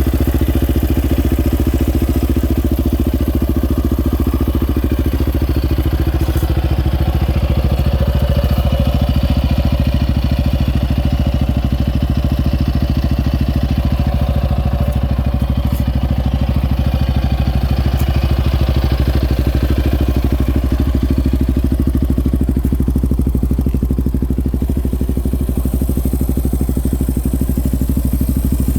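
2019 Yamaha Raptor 700R ATV's single-cylinder engine idling steadily through an aftermarket Curtis Sparks exhaust.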